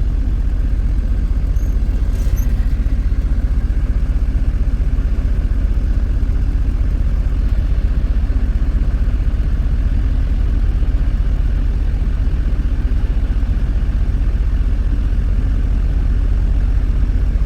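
Steady, unchanging low rumble of a truck's engine.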